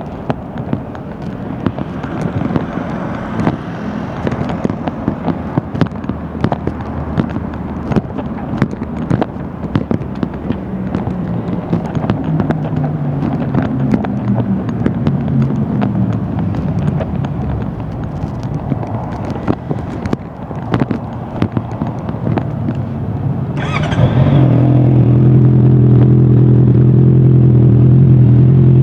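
Motorcycle engine running, its pitch wandering up and down amid many sharp clicks and crackles; about 24 seconds in it gets much louder and settles into a steady drone.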